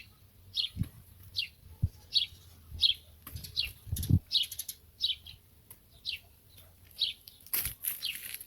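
Repeated short, high chirps, each falling in pitch, about one every two-thirds of a second, bird-like. A few soft low thumps come in between.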